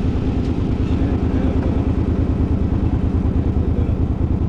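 Suzuki's engine running steadily with an even low pulse, no revving.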